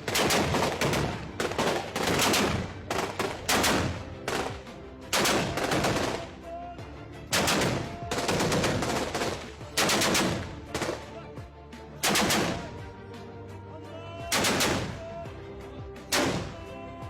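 Repeated bursts of automatic gunfire in irregular clusters, with background music coming in under it about six seconds in.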